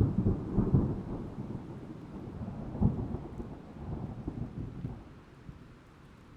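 A thunderclap over steady rain: a sudden low rumble with crackling peaks right at the start and again about three seconds in, rolling away over the last second or so.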